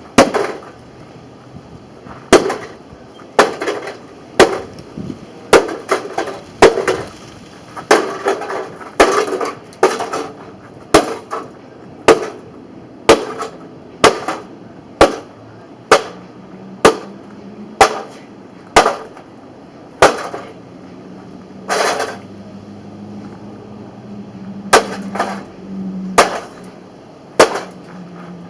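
A hammer strikes a microwave oven's metal casing about two dozen times at roughly one blow a second, with sharp metallic bangs. Some blows are followed by brief rattling of loose parts.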